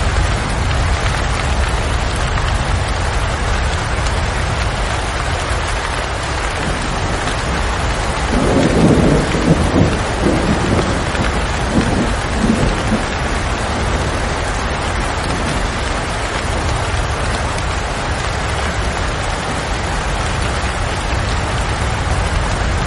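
Steady heavy rain falling, an even hiss with a low rumble underneath. About eight seconds in, a roll of thunder swells and rumbles for roughly five seconds before fading back into the rain.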